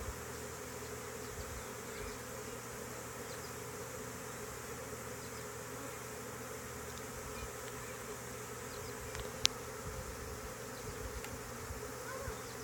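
Honey bee swarm buzzing steadily in a dense, even hum, with a single sharp click about nine and a half seconds in.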